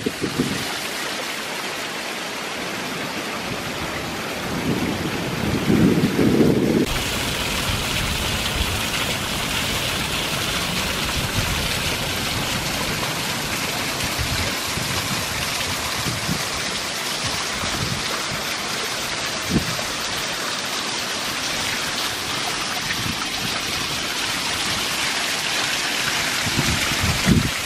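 Small woodland waterfall rushing steadily with rainwater from the night before, with gusts of wind buffeting the microphone around six seconds in and again near the end.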